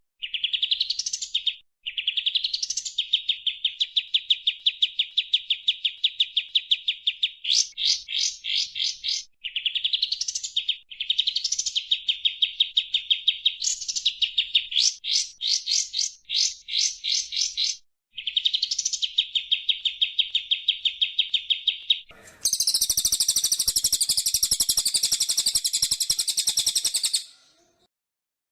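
Recorded cage-bird song: fast, evenly repeated high chip trills, several seconds at a stretch, broken by short pauses and a few upward-sweeping notes. From about 22 s to about 27 s there is a harsh, buzzing call, which then cuts off.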